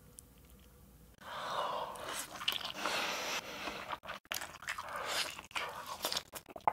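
A bite into a chicken burrito about a second in, then chewing with irregular crackles and clicks.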